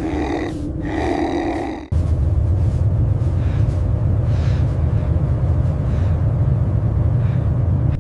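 A pitched animal-like growl, cut off abruptly about two seconds in, followed by a loud, steady low rumble of noise like storm wind.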